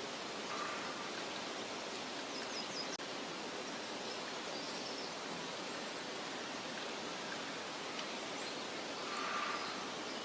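Meadow nature ambience: a steady soft rushing noise with a few faint, short, high bird chirps scattered through it. The sound drops out very briefly about three seconds in.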